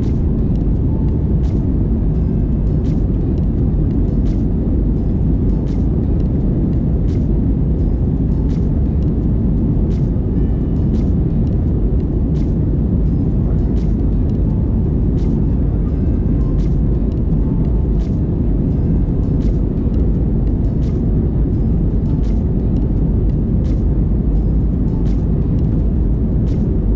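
Steady deep rumble of jet engine and airflow noise inside the cabin of an Airbus A320 powered by IAE V2527E-A5 engines, holding level throughout, with faint ticks over it.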